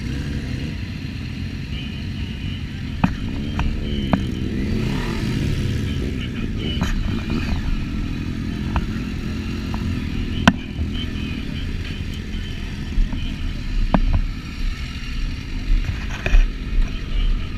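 Motorcycle engine running steadily, its pitch rising and falling about four seconds in as the engine revs up and down, with scattered sharp clicks.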